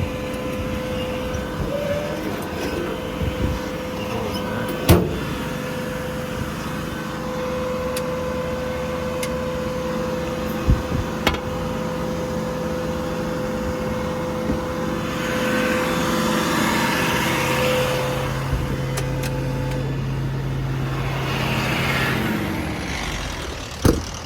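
Service truck's welder generator running steadily, with a few sharp clicks and two swells of rushing noise in the second half, then winding down near the end.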